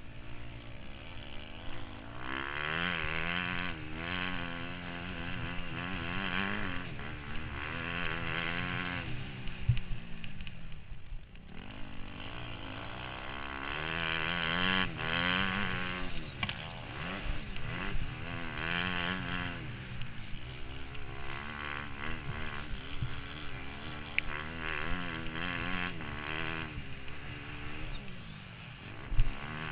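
Motocross bike engine heard from the rider's helmet, revving up and down as the throttle is opened and shut again and again, with a short drop towards idle about eleven seconds in. A few sharp knocks come through.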